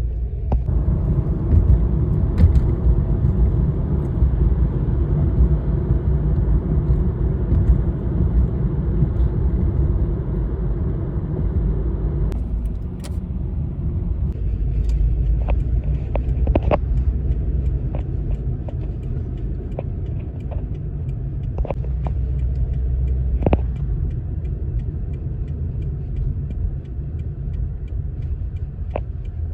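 Road vehicle running with a steady low rumble; about twelve seconds in the higher part of the noise drops away, and faint scattered clicks follow.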